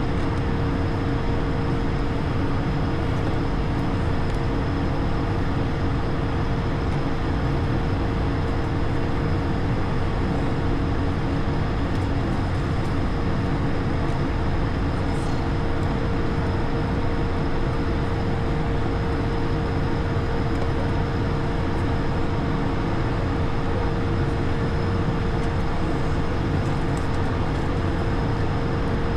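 Steady ambient noise inside an Airbus A220 cockpit, a constant rumble and rush with a steady hum running through it.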